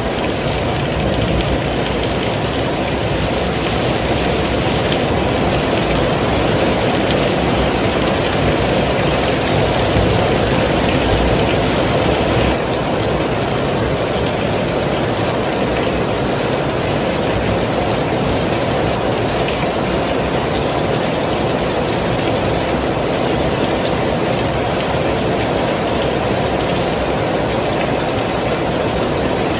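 Heavy rain pouring down steadily, a dense, even rush of noise without a break.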